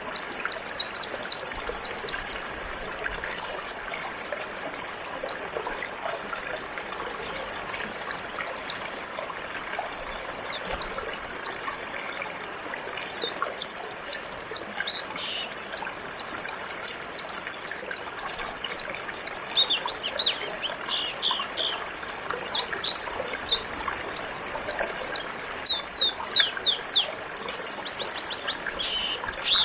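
Pleci (white-eye) songbirds chirping in quick runs of high, downward-sliding notes, over the steady rush of a flowing river.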